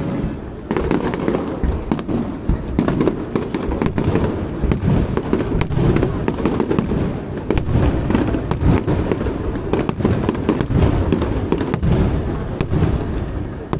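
Fireworks display going off in a continuous barrage: many rapid cracks and bangs over a steady low rumble of booms.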